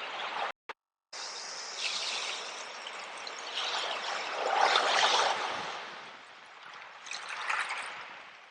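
Sea water washing and splashing in surges, the biggest about halfway through and a smaller one near the end. The sound cuts out completely for about half a second just after the start.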